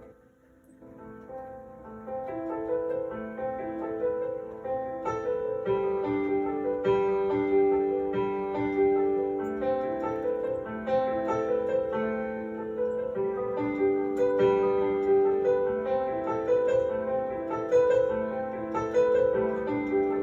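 Piano music: held notes overlapping, fading almost to nothing about half a second in, then coming back and growing louder.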